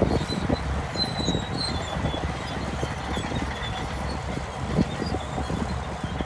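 Shantui DH17 crawler bulldozer running: a steady low engine rumble with irregular clanking from its steel tracks and a few faint high squeaks.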